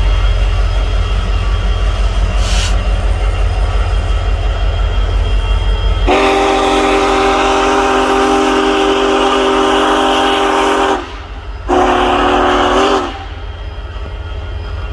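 Union Pacific Big Boy No. 4014 steam locomotive sounding its chime whistle: a long blast of about five seconds, then a shorter one after a brief break, over a steady low rumble.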